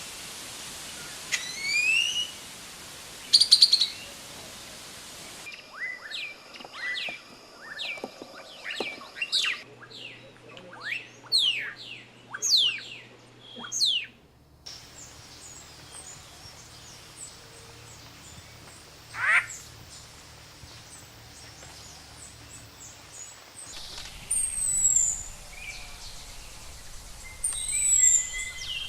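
Wild birds singing and calling, several different species in turn from separate recordings. First come short high chirps and rising notes, then a quick run of whistled notes sliding up and down. After that a single rising call, and near the end a few high falling notes.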